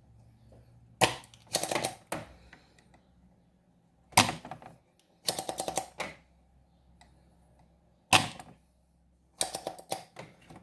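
Spring-loaded desoldering pump (solder sucker) in use on a circuit board, clearing solder from a component's holes: three rounds of a sharp snap followed by a quick run of clicks.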